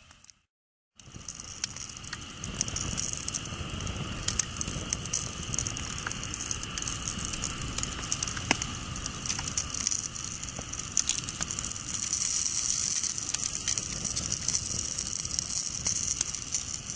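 Campfire burning, with dense crackling and popping over a steady hiss that grows louder in the second half. The sound drops out completely for about a second at the very start.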